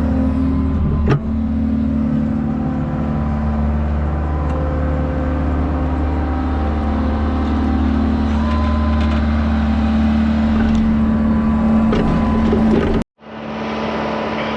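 Excavator's diesel engine running steadily, with a sharp click about a second in and a brief whine near the middle. Near the end the sound cuts off abruptly, and a different, quieter engine hum takes over.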